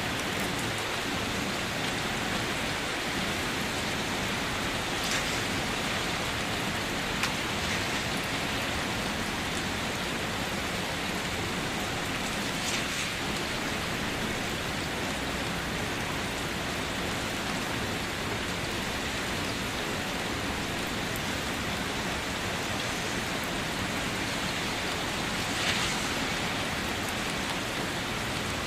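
Steady rain falling, with a few single drops standing out now and then.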